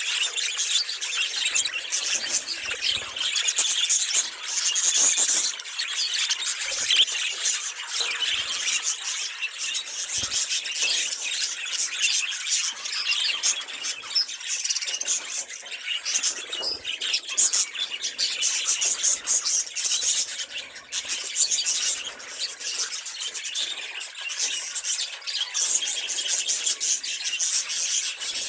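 A group of budgerigars chattering and warbling without a break: a dense mix of high chirps, squeaks and squeals.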